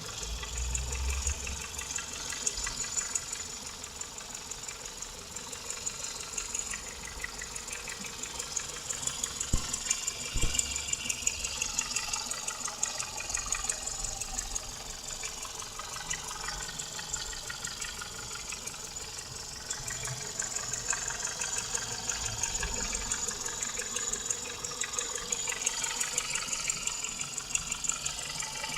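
Renault Mégane II 1.6-litre 16-valve engine running steadily with a fast, regular knocking, which the owner fears means it needs a major overhaul. Two sharper knocks stand out about ten seconds in.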